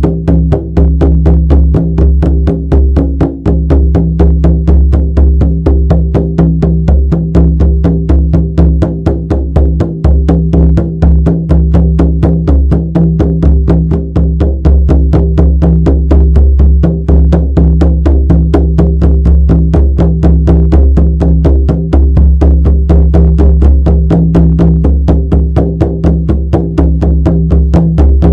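Shamanic frame drum beaten in a fast, steady, even rhythm of about four strokes a second, its deep ring carrying on between strokes.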